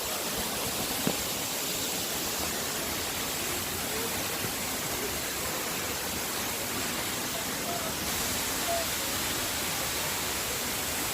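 Falling water of a waterfall rushing, a steady even noise with no change throughout, and a single small click about a second in.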